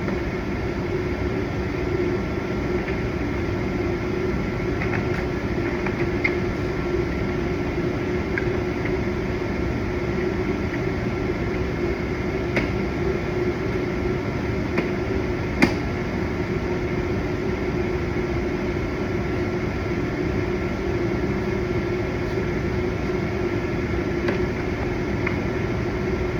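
Steady mechanical hum with a constant drone, like a fan or air-conditioning unit running, under a few light clicks and taps from plastic bumper parts and brackets being handled. One sharper click comes about fifteen seconds in.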